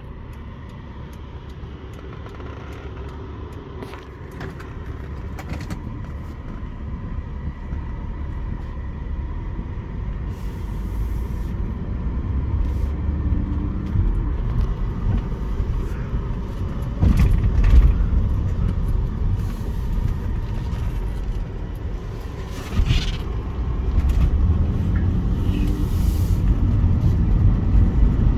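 1995 Acura Legend's 3.2-litre V6 under hard acceleration, its engine and road noise growing steadily louder as speed builds. The sound dips and picks up again twice in the second half, at the gear changes.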